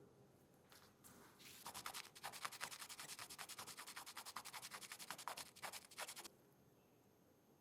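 Quick, even back-and-forth rubbing strokes, about eight a second, on a small die-cast model. They begin about two seconds in and stop abruptly some four seconds later.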